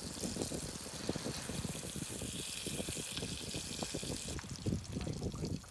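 Water splashing and lapping in quick, irregular slaps, with a steady wash of hiss behind it.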